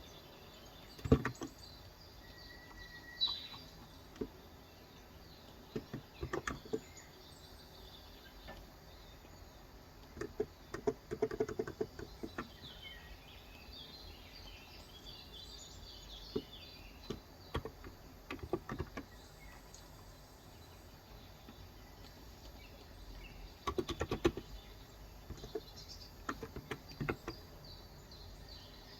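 Typing on a Cox Endeavour electro-capacitive (Topre-style) tenkeyless keyboard with light 35 g keys, in short scattered bursts of keystrokes with pauses between. Birds chirp faintly in the background.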